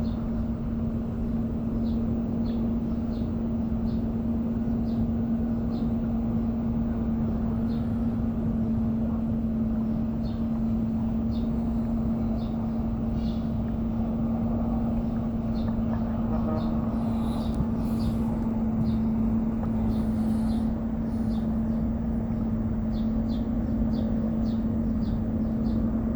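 A steady low mechanical hum at one constant pitch, with faint, regularly spaced light ticks above it.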